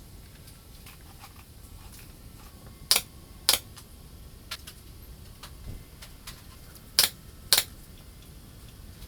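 Four sharp clicks in two pairs, each pair about half a second apart and the pairs about four seconds apart, with a few fainter clicks between them.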